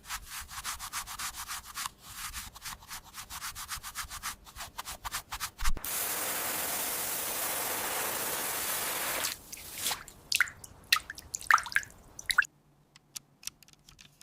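Quick repeated rubbing strokes on a toy car's body, like sanding or scrubbing, then a steady hiss for about three seconds, then scattered short squeaks and clicks.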